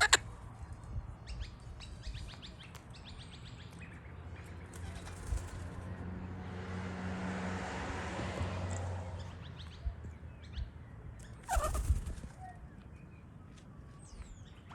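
King parrots' wings flapping, with sharp clicks and a few short chirps; a loud flurry of wingbeats and calls comes near the end. A rushing noise swells and fades midway.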